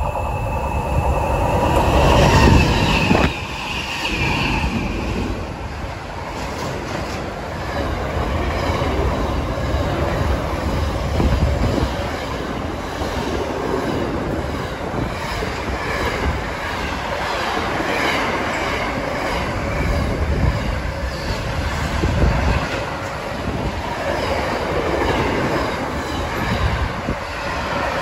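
Pacific National NR class diesel-electric locomotives passing at high speed, loudest a couple of seconds in. Then a long run of container wagons rushes past with rattling, clattering wheels and wind from the train buffeting the microphone.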